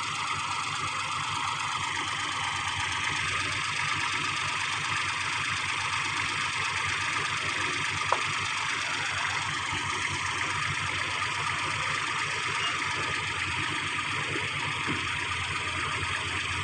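Heavy machinery engine running steadily at an even pace, with a single short click about eight seconds in.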